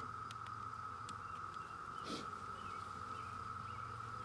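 Steady, high insect drone outdoors, with a few faint clicks and a short rustle about two seconds in.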